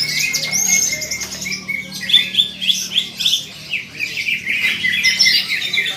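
Several cucak ijo (green leafbirds) singing at once: a dense, continuous jumble of rapid, high chirps and trills, with a faint steady low hum beneath.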